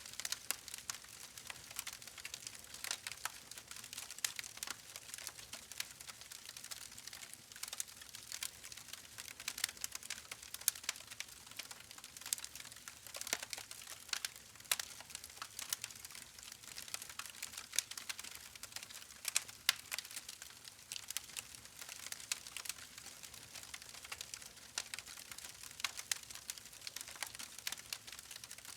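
Campfire crackling: burning wood giving off a dense, irregular run of sharp pops and snaps over a faint hiss.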